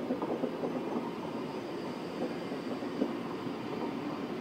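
Swiss SBB passenger coaches rolling past on the rails, a steady running noise with irregular wheel clacks, one sharper clack about three seconds in.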